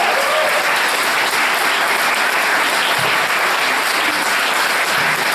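Audience applauding steadily after a choir song.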